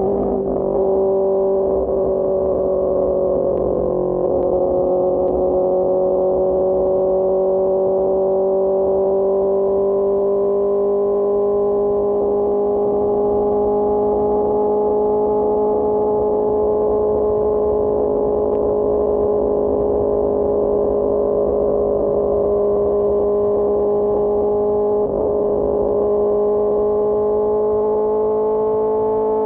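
QJMotor SRK600 inline-four engine running at high, steady revs through a Pure Austin Racing GP1R exhaust, its pitch creeping slowly upward as the bike holds speed and gradually gains.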